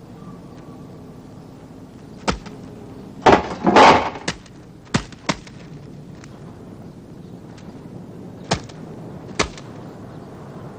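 Cartoon sound effects: single sharp knocks here and there, with a louder burst of clattering impacts about three to four seconds in, over a faint steady background.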